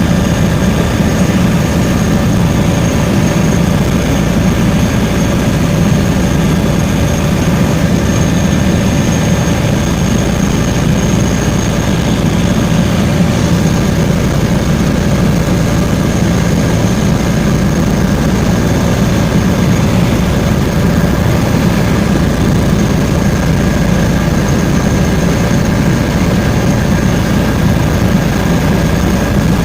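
Helicopter in flight: a steady, unchanging engine and rotor noise, a low drone with a thin high turbine whine over it.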